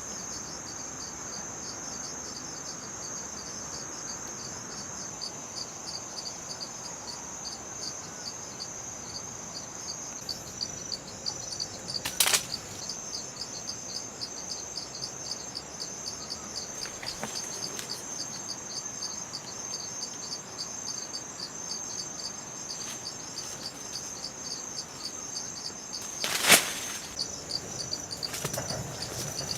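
Steady, high-pitched trilling of insects, rapidly pulsing, with two sharp snaps about twelve seconds apart and a few soft clicks near the end.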